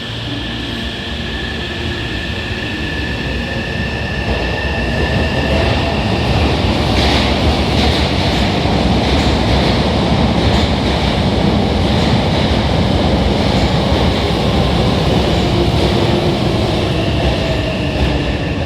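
Hankyu 9000 series electric train pulling out and rolling past. A steady high electric whine comes first as the running noise builds over several seconds. About seven seconds in a rush of hiss joins, and then a steady rumble with repeated wheel clicks continues as the cars go by.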